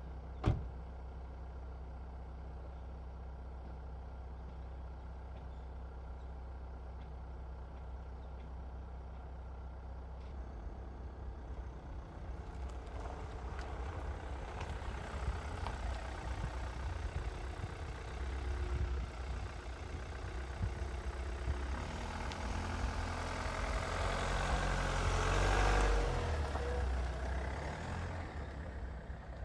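A motor vehicle going by over a steady low rumble. Its noise swells gradually over about fifteen seconds to a peak near the end, then fades. There is a single sharp click about half a second in.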